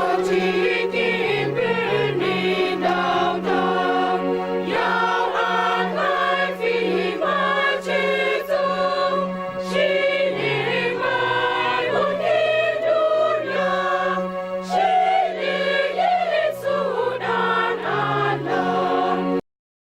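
A choir singing a Christmas carol over steady low held accompaniment notes; it cuts off suddenly just before the end.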